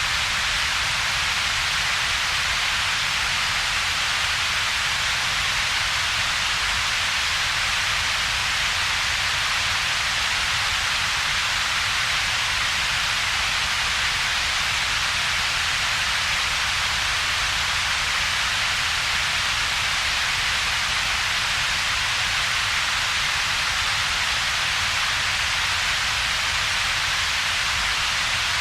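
Synthetic double-peaked coloured noise, steady and unchanging. It is a broad hiss centred around 2–5 kHz with a separate low rumble below about 200 Hz, and a hollow gap between the two.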